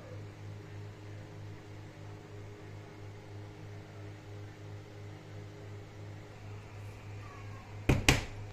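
A steady low hum, with two sharp knocks in quick succession near the end.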